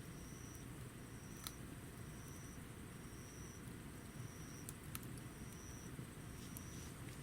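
Home-made wood stove burning with a steady low rumble and a few sparse crackles. A short high chirp repeats about once a second throughout.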